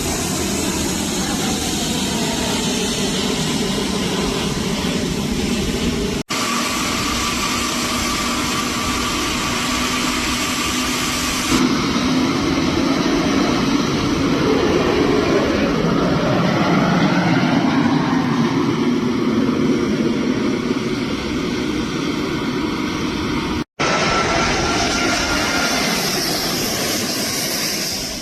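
Light propeller aircraft engines running during takeoffs and landings, in several short clips joined with abrupt cuts. In the middle clip the engine tone glides in pitch and grows loudest as a plane passes close by.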